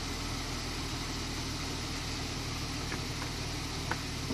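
Jeep Wrangler TJ's engine idling steadily, with a couple of faint clicks about three and four seconds in.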